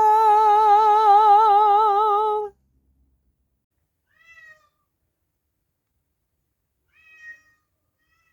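A long, drawn-out meow with a regular wobble in pitch, held for about two and a half seconds before it cuts off, then two faint, short, high-pitched meows about four and seven seconds in.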